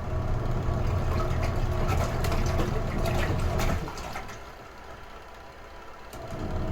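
Retro-type washing machine washing: its motor hums with water sloshing, stops about four seconds in, then starts again near the end, as the wash drum turns one way, pauses and turns again.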